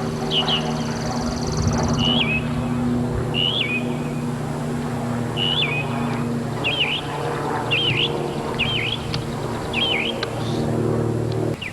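A bird calling over and over in short chirps, roughly one a second, over a steady low mechanical hum that cuts off suddenly near the end.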